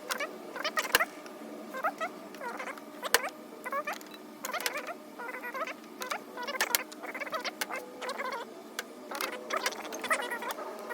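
Hand tools and sockets clinking and clattering as they are picked up, sorted and set down, with irregular sharp metal clicks and knocks.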